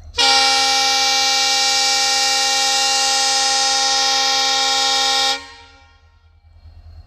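Indian Railways locomotive air horn sounding one long, loud, steady blast of about five seconds that stops abruptly.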